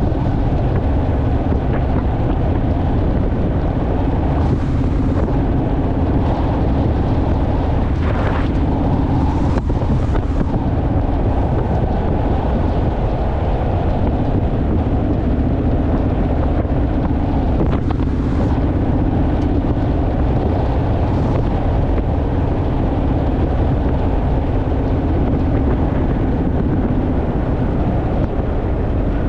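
Honda Rebel parallel-twin motorcycle engine running steadily at cruising speed, with wind rushing over the microphone.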